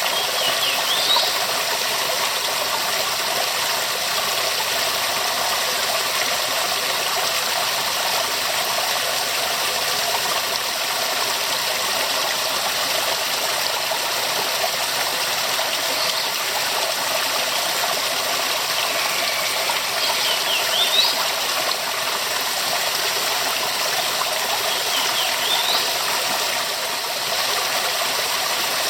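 Waterfall rushing steadily. Three brief high rising chirps cut through it: about a second in, about two-thirds through, and again near the end.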